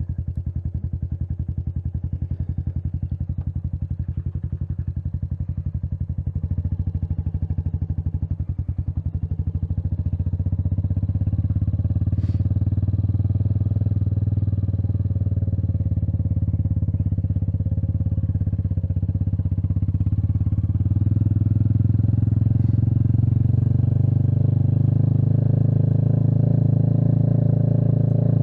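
Royal Enfield Meteor 350's single-cylinder engine running on the move, with an even thumping beat. It gets louder about ten seconds in and again after about twenty seconds as the bike picks up speed.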